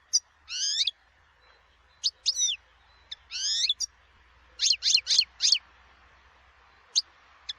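European goldfinch singing in short, separate twittering phrases of quick rising notes. About halfway through comes a fast run of four sharp notes, each hooking downward.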